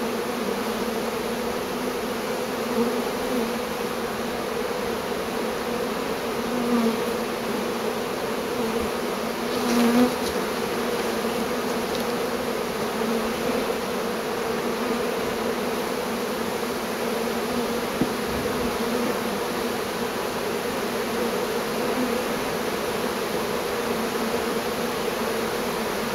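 Large swarm of honeybees buzzing in a steady, dense drone, with a brief louder swell about ten seconds in.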